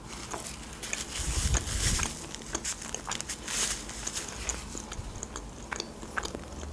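A person chewing a mouthful of homemade pizza close to the microphone: wet mouth sounds with many small clicks and crackles, loudest about a second or two in.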